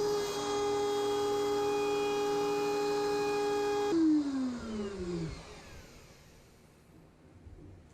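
Electric wood router running at a steady high-pitched whine. About four seconds in it is switched off, and the whine falls steadily in pitch and fades as the motor and bit spin down.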